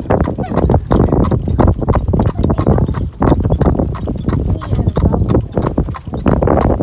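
A buggy horse's hooves clip-clopping in a steady trot, heard from aboard the horse-drawn buggy it is pulling, over a continuous low rumble.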